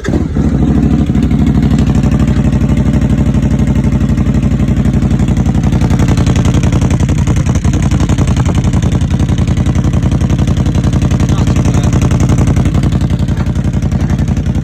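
2025 CFMOTO CFORCE 1000 ATV's V-twin engine starting and settling into a steady idle through a newly fitted cheap aftermarket exhaust, with an even, pulsing exhaust note.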